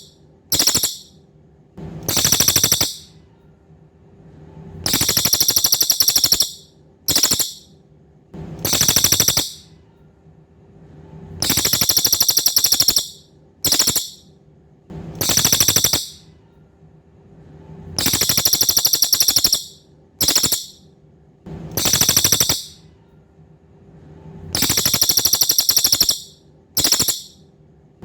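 Cililin bird song: high, buzzy, rapidly pulsed trills in a fixed cycle of a long trill, a short burst, then a medium trill, repeating about every six and a half seconds. Every repeat is identical, as a looped recording used for mastering songbirds would be.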